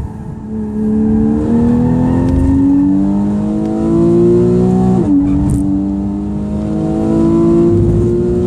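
Porsche 911 Carrera S (991) flat-six engine at full throttle, heard from inside the cabin. The note dips briefly as the car comes off the brakes, then climbs steadily through the revs under hard acceleration. About five seconds in, a quick upshift drops the pitch, and the engine climbs again.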